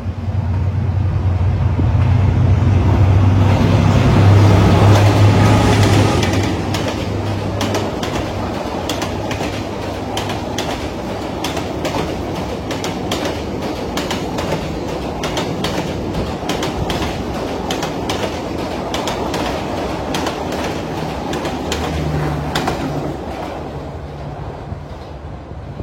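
A train passing. A loud low hum builds and peaks in the first six seconds, then a long run of rapid rhythmic clicks from the wheels over the rail joints as the cars go by, fading near the end.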